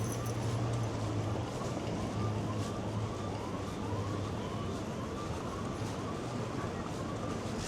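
An emergency vehicle's siren, faint under the street noise, sweeping up in pitch over and over at about one and a half sweeps a second. Beneath it is steady city traffic noise with a low engine hum.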